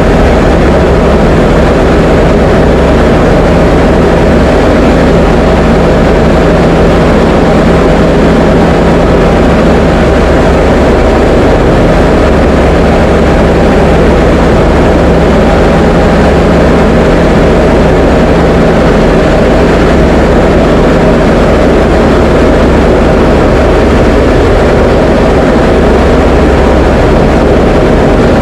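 Diamond DA20 light aircraft's piston engine and propeller droning steadily and loudly in flight, with a constant low hum under dense engine noise and no change in power.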